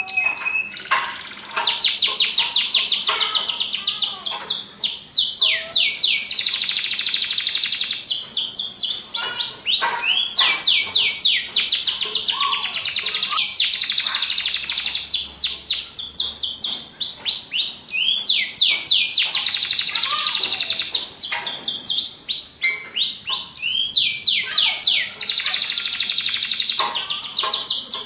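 A domestic canary sings in full, vigorous song: long, rapid trills of quickly repeated high notes that sweep down in pitch, broken by a few brief pauses.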